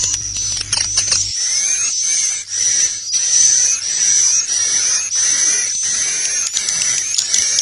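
Swiftlets twittering in a dense, continuous chorus of high chirps with rapid clicks: a swiftlet 'roosting call' lure recording of the kind played in swiftlet houses to draw the birds to stay and nest. A low hum under it stops about a second in.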